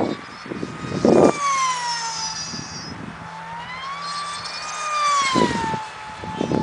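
Avionik D05 F5D pylon racer's Mega 16/25/1E electric motor and propeller whining as it flies past. The pitch drops as it passes about a second in, rises again and drops on a second pass about five seconds in. Each pass comes with a short rush of noise.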